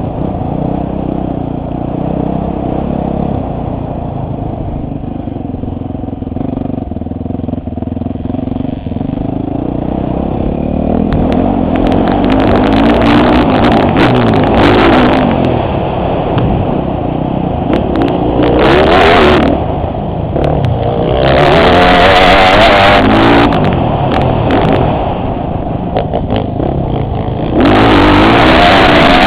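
Motocross bike engine heard from the rider's helmet camera on the track: running quieter for the first ten seconds or so, then revving up and down, with several loud full-throttle stretches in the second half.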